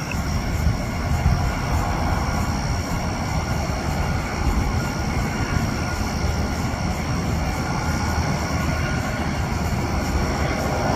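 Boeing 777-300 jet engines on landing approach: a steady rumble with a thin, high, steady whine above it.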